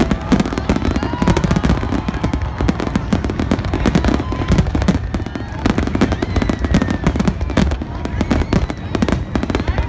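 Fireworks display: a dense, continuous barrage of bangs and crackles over a deep rumble, with no let-up.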